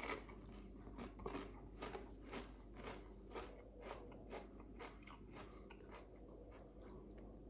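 A person chewing a mouthful of Pringles crisps: crunches about twice a second, fading out after about five seconds as the crisps are chewed down.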